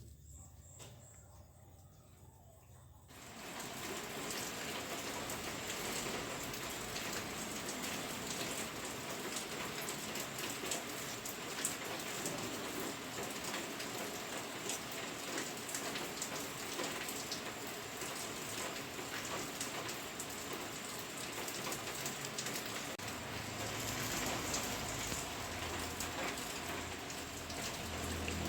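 A chisel blade being worked on a wet sharpening stone: a steady, gritty, wet scraping hiss full of fine ticks. It starts about three seconds in, after a faint, quiet start.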